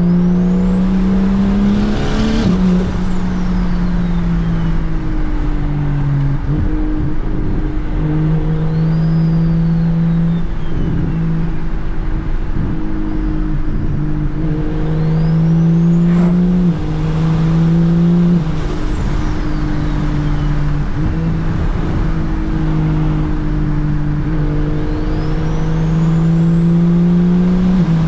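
Single-turbo BMW N54 inline-six in an E92 335i pulling hard through the gears, its engine note stepping with each gear change. The turbo whistle climbs to a high pitch on each pull and falls away as the throttle comes off, three times strongly and once faintly.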